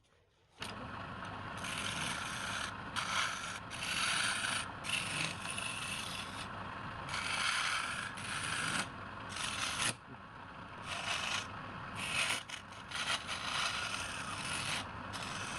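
Wood lathe running while a turning tool scrapes the spinning wood in a series of cuts, each lasting about half a second to a second with short breaks between them. The sound starts about half a second in.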